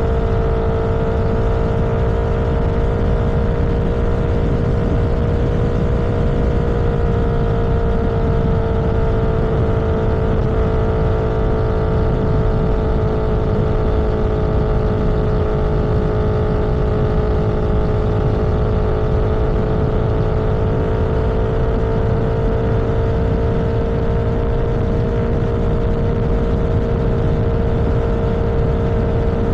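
Vehicle engine cruising at a steady speed, its drone holding one pitch that sags slightly in the middle and comes back up, over a constant low rumble of wind and road noise.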